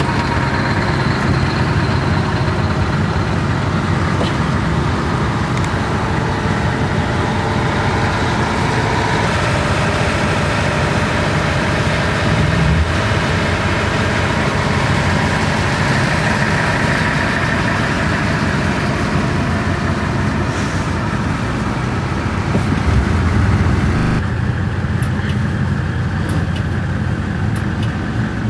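Detroit Diesel 12V-71 two-stroke V12 diesel of an FTF heavy truck running steadily and loudly, with a brief low swell about halfway and the treble dropping off suddenly near the end.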